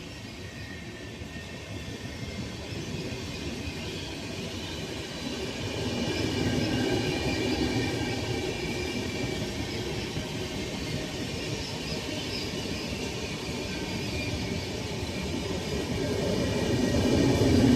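Rajdhani Express passenger train approaching on the rails, a steady rumble that grows louder as it nears, rising most toward the end.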